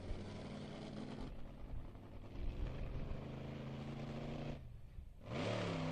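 Monster truck engine running at a steady speed, then dropping out briefly about five seconds in and coming back louder, its pitch dipping and then rising as it revs.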